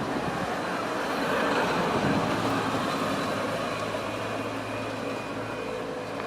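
Traffic passing on a road: a vehicle's noise swells to a peak about two seconds in and then eases, and a steady low engine hum comes in after it.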